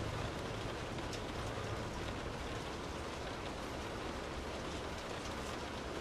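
Steady rain falling, a dense even patter with scattered individual drops. A low hum underneath fades out in the first couple of seconds.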